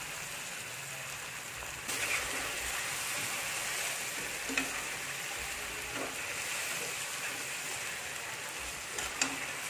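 Spice paste and pieces of salted tongkol fish sizzling in a wok while a metal spatula stirs them. The sizzle steps up about two seconds in, with a few clicks of the spatula against the pan.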